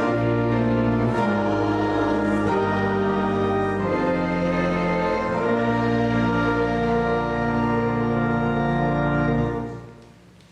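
Organ playing sustained chords over a steady low bass, ending on a final held chord that stops about nine and a half seconds in and dies away in the room's reverberation.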